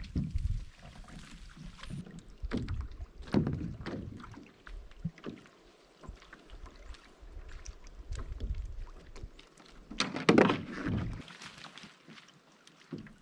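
A stick poking and scraping under an overturned canoe's hull, with irregular hollow knocks and rubbing, checking for spiders before the canoe is flipped; a louder knock and scrape comes about ten seconds in as the canoe is handled.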